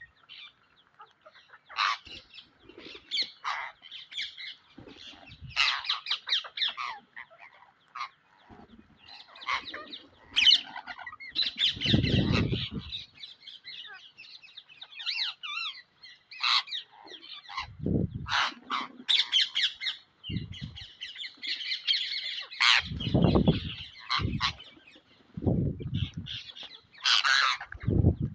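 A parrot making repeated short squawks and chirps, in quick clusters with brief pauses. Several dull low thuds come in among the calls, the loudest about twelve seconds in and again near the end.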